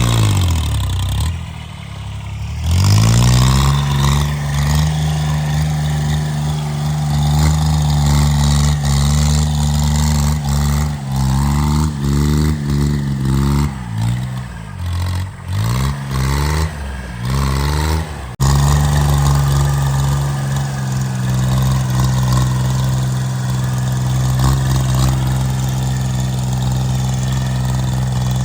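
Homemade tractor's engine running, its speed dropping and picking up again several times, then holding a steady speed for the last ten seconds or so.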